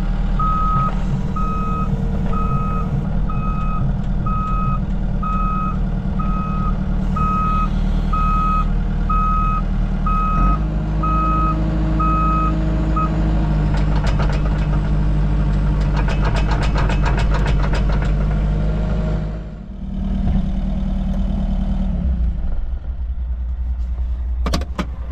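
Diesel engine of heavy equipment running with a backup alarm beeping steadily. The beeping stops about halfway through, a few seconds of metallic rattling clicks follow, and the engine sound dips briefly near the end before carrying on.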